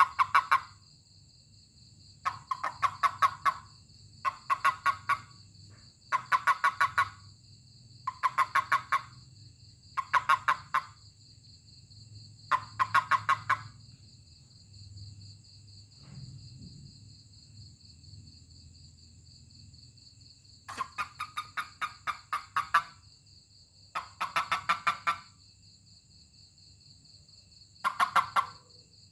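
A toad giving short bursts of rapid chirping pulses, about ten in all, with a pause of several seconds midway; it is the release call a toad makes when handled. A steady high trill of insects runs underneath.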